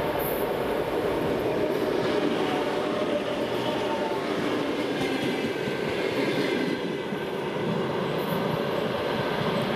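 2TE116 diesel locomotive hauling a work train past at close range: its engine runs as it goes by. The coaches then follow, their wheels rumbling and clacking over the rails in a steady, loud pass.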